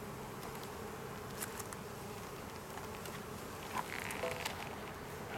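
Honeybees buzzing around an opened hive: a steady, dense hum. A few light clicks come about one and a half seconds and four seconds in.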